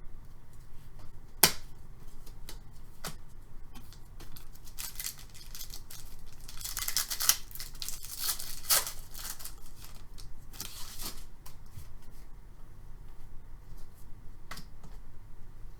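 Trading cards and their packaging being handled: a few sharp snaps and clicks, with brushing, sliding and rustling near the middle.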